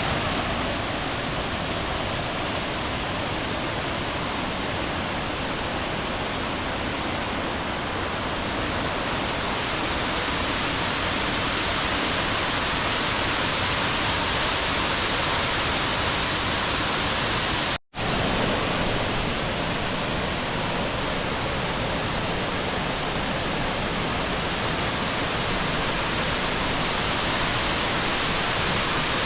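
Waterfall: a steady, loud rush of falling water, broken once by a momentary dropout about eighteen seconds in.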